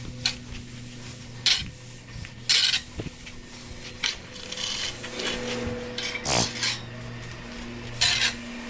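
Short, irregular scrapes and rasps of a stall-cleaning tool working through bedding, about six of them, over a steady low hum.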